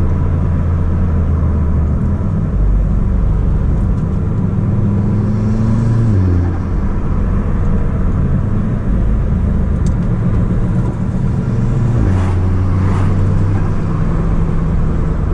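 Audi S3 8P's turbocharged 2.0 TFSI four-cylinder, fitted with an aftermarket downpipe, running steadily while the car is driven. The engine note drops about six seconds in and picks up again at about twelve seconds.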